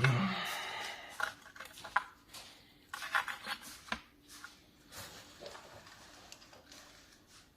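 Handling noise of small hard objects: a clatter at the start that fades over about a second, then scattered light clicks and knocks.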